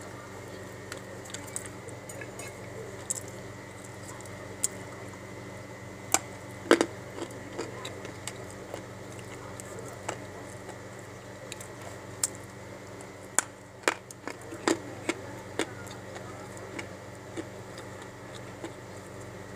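Dry edible clay being bitten and chewed close to the microphone: irregular sharp crunches and cracks, thickest around seven seconds in and again around fourteen seconds in, over a steady low hum.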